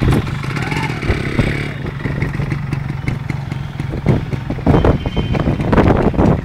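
Yamaha RX135's single-cylinder two-stroke engine running at idle, steady at first, then louder and uneven from a little past halfway.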